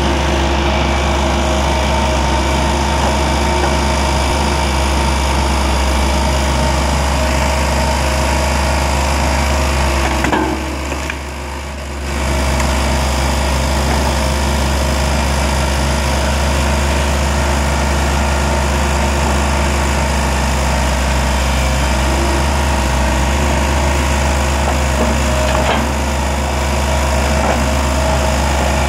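Skid steer's engine running steadily. It drops in level for about a second and a half roughly ten seconds in, then carries on as before.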